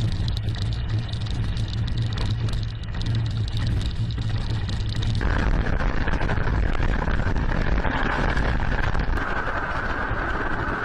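A steady, loud low rumbling noise that turns brighter and hissier about five seconds in.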